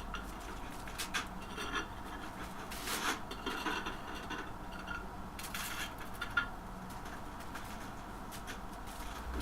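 Scattered light scrapes, rubs and clicks of hand work, with a steady low hum underneath.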